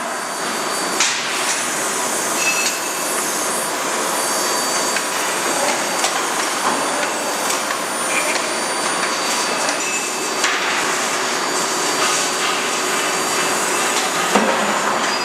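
Steady mechanical din of a hydraulic die forging hammer line running, with a few light knocks scattered through it rather than heavy blows.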